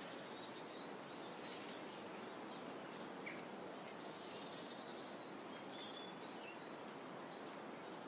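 Faint, steady shoreline ambience of calm water rippling, with scattered faint bird chirps and a couple of short high calls about seven seconds in.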